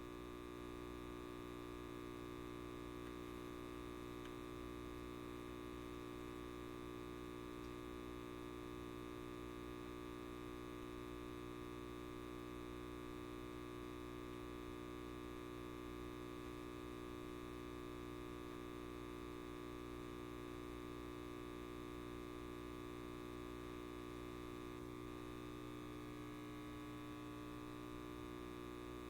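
Light bulb giving off a steady electrical buzz, a hum of many even overtones that holds unchanged.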